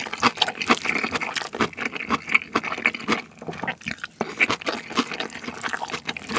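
Close-miked wet chewing and lip smacking of a mouthful of rice mixed with soy sauce-marinated raw crab innards: rapid, irregular sticky clicks and smacks.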